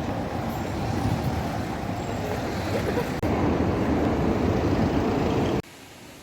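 Outdoor city ambience dominated by a steady rumble of road traffic, in short clips cut together: the noise changes abruptly about three seconds in and drops much quieter near the end.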